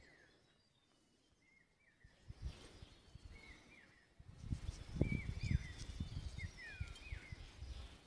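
A bird outdoors repeating short, down-slurred whistled calls. Over the calls come irregular low rumbling buffets on the microphone, loudest about halfway through.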